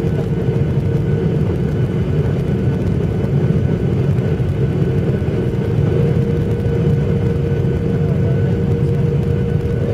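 Airliner cabin noise: a steady, loud rumble of engines and airframe with a constant whine through it, as the jet moves on the ground just after landing.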